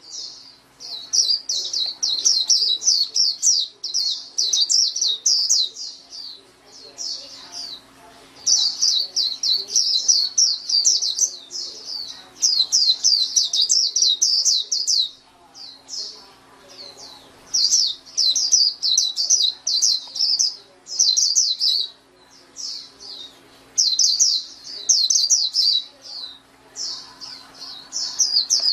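White-eye (pleci) singing long, rapid, high-pitched twittering phrases of several seconds each, broken by short pauses.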